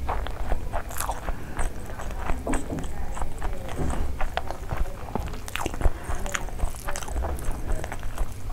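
Close-miked chewing of a mouthful of rice and curry: irregular wet smacks and clicks throughout, with fingers squishing and mixing rice on the plate.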